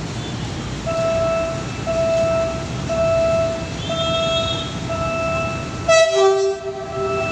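Warning beeps from a commuter train, one tone repeating about once a second, then about six seconds in a short, loud train horn blast with a lower tone held for about a second after it.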